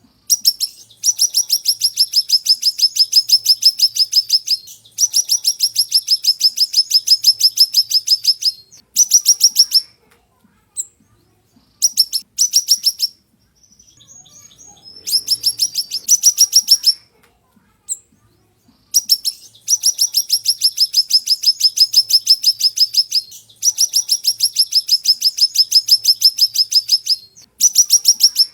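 Siri-siri bird singing sharp, rapid trills of repeated high notes, each run lasting a few seconds, with short pauses and a few shorter bursts between them.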